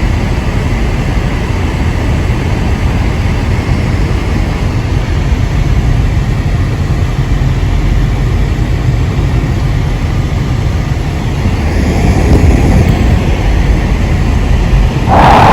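Blizzard wind buffeting the microphone: a loud, steady low rumble that swells in gusts. Just before the end a louder, higher hiss cuts in suddenly.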